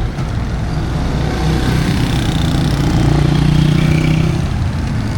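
A motor vehicle engine running close by amid street traffic. It grows louder about two seconds in and eases off near the end.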